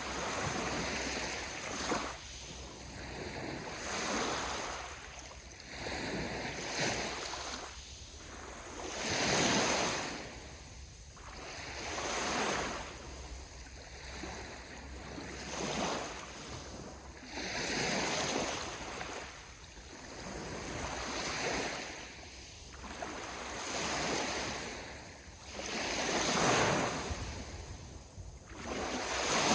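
Ocean waves breaking and washing on the shore, the surf swelling and falling every two to three seconds.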